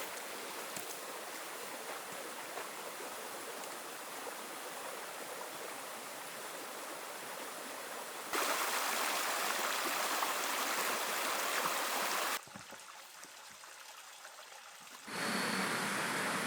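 Stream water flowing, a steady rushing that steps up abruptly in level about eight seconds in, drops back sharply a few seconds later, and rises again near the end.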